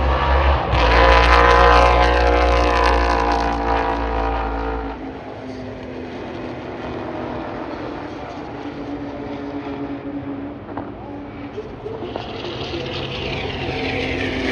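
Racing car passing close by at speed, its engine note dropping as it goes by in the first few seconds. Other cars are then heard running further off, and another one comes close near the end.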